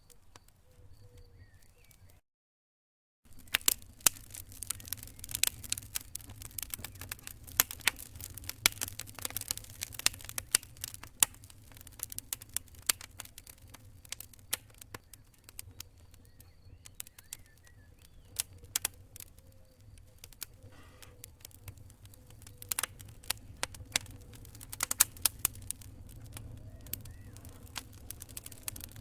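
Campfire crackling, with frequent irregular sharp pops and snaps over a low rumble of burning wood. It starts quietly, cuts to a second of dead silence about two seconds in, then resumes with dense crackling.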